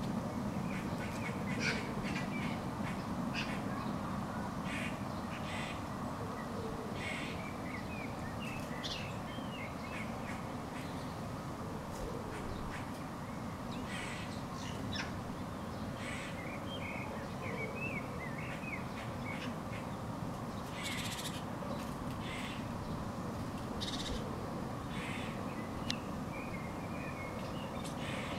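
Birds calling throughout, short chirps and harsh caw-like calls coming every second or two, over a steady low background noise.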